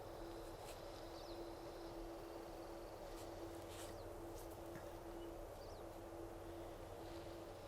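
Quiet outdoor ambience with a few faint, short high bird chirps scattered through it over a steady low hum.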